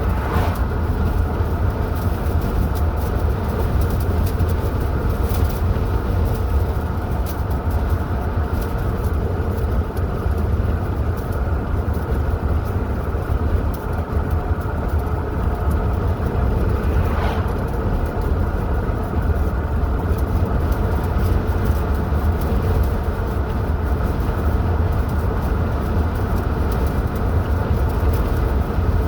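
Car driving along a highway: steady road and engine noise with a constant low rumble, and a brief faint swish near the start and another about two-thirds of the way through.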